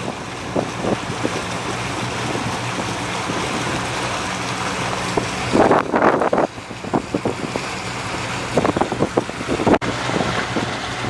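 Motorboat engine running steadily under way, a low even hum beneath rushing wind and water. Gusts of wind buffet the microphone about halfway through and again near the end.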